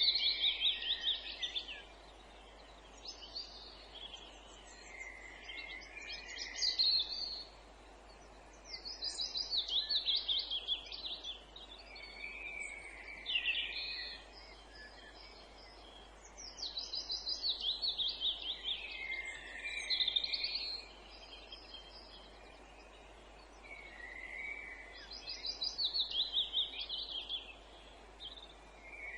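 Songbirds singing in woodland: one bird repeats a quick run of high notes about two seconds long, roughly every eight seconds, with softer calls from other birds between the phrases over a faint steady hiss.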